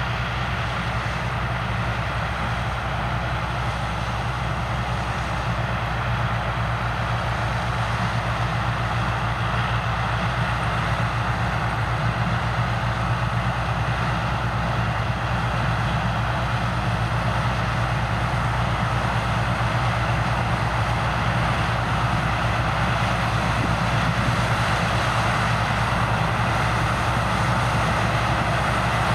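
Heavy harvest machinery running steadily in a corn field: a constant low engine hum under a broad rushing mechanical noise, growing slightly louder toward the end.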